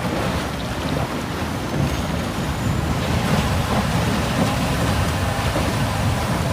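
Strong wind buffeting the microphone: a steady, dense rush heavy in the low end.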